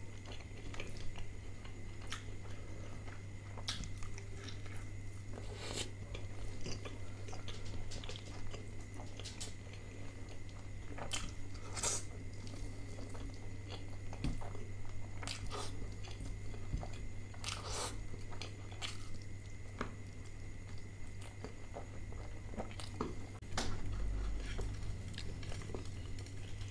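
Close-miked chewing of butter chicken and naan eaten by hand, with scattered wet mouth clicks and smacks, over a steady low electrical hum.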